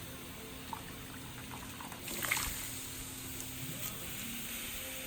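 Scald water splashing and trickling as a slaughtered chicken is dunked in hot water to loosen its feathers, with a few small drips early on and a louder splash a little after two seconds in.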